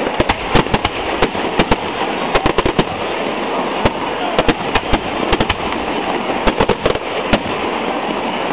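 Fireworks display: rapid, irregular bangs and cracks of bursting shells, often several close together, over a continuous rumbling, crackling haze.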